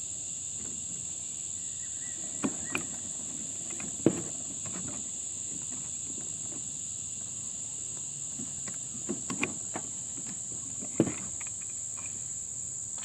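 Scattered light clicks and knocks of metal as a C-clamp is worked down to ease a brake caliper piston into its bore, the sharpest one about four seconds in. Under them runs a steady high-pitched whine.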